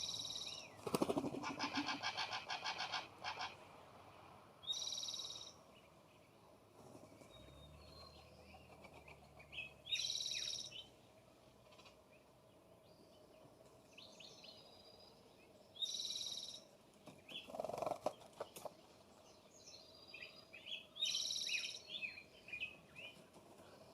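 Songbirds calling at a feeder: a harsh, buzzy call repeats about every five seconds, with a fast rattling call near the start and short chirps between.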